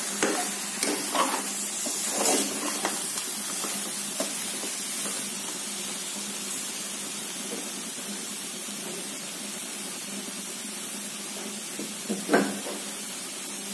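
Chicken pieces in masala sizzling in oil in a pressure cooker pot, a steady hiss. A metal slotted spoon scrapes the pot a few times in the first few seconds, and there is one more short scrape near the end.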